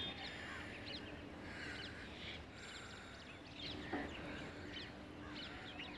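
Small birds chirping faintly, with many short high calls overlapping.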